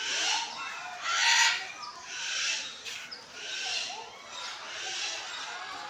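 Birds calling: a harsh, rasping call repeated about once a second, with small chirps between.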